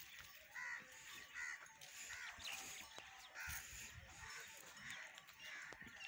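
Faint outdoor bird calls: short cries repeated every half second to a second, over a quiet farmyard background.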